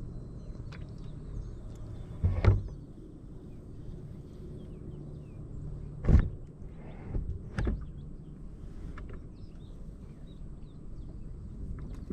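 A few sharp knocks and bumps in a small boat, the loudest about two and a half and six seconds in, over a steady low hum.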